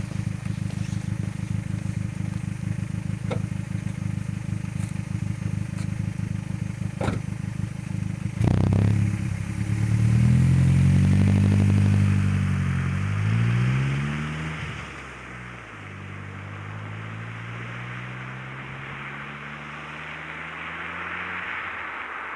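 Exhaust of a 2.0 turbo four-cylinder Opel Z20LET engine through a 2.5-inch system with an RM Motors RM9 sport rear silencer. It runs steadily, then about eight seconds in the revs climb, peak and fall back over some five seconds, before settling to a quieter steady run.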